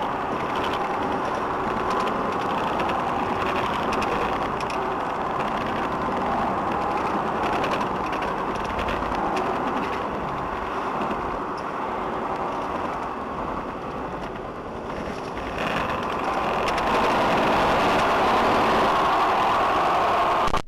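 A motor vehicle's engine and road noise, running steadily and growing louder about 16 seconds in.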